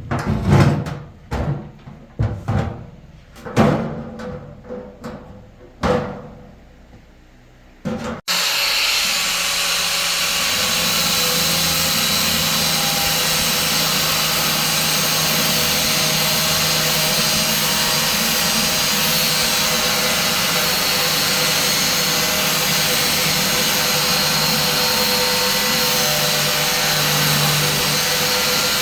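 A series of separate knocks and clinks over the first eight seconds, then an abrupt switch to a power tool running steadily: a continuous hissing whir with a low hum underneath that holds level to the end.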